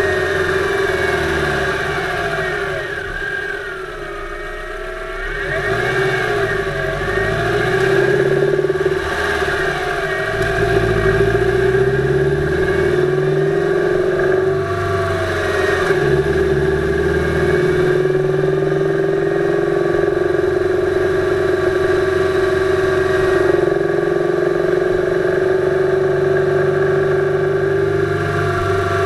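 2008 Subaru Impreza 2.5i's flat-four engine heard from the engine bay while driving, revs rising and falling through gear changes, with a steady whine alongside. The owner is chasing an intermittent, wooden-sounding knock that shows up around 2500 rpm under light-to-moderate load.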